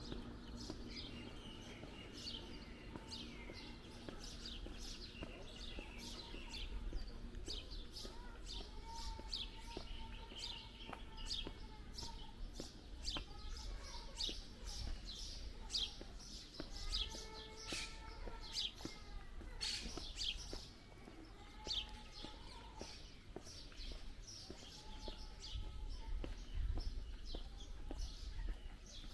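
Small birds chirping, many short, high calls repeating throughout, over a low, steady outdoor rumble.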